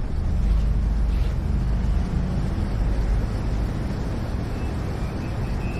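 A steady low rumble of background noise that eases a little about halfway through.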